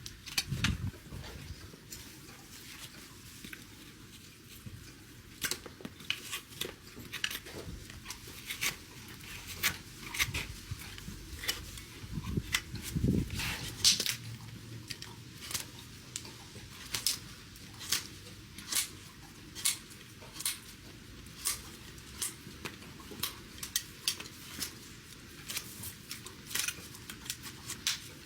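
Hoof-trimming tools cutting a horse's overgrown hoof: irregular sharp snips and clicks, roughly one every half second to second, with a few low thumps near the start and about halfway through.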